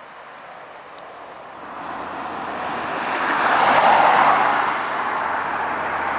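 A road vehicle passing by, its tyre and engine noise swelling to a peak about four seconds in and then easing off into steady traffic noise.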